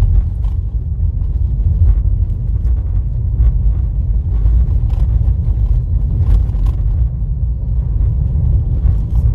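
Car driving on a dirt road, heard as a steady low road rumble with scattered short knocks and rattles from the rough surface.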